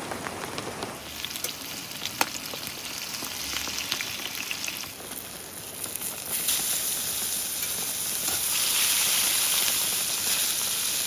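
Food sizzling and frying in a pan, a steady hiss that swells and drops abruptly a few times.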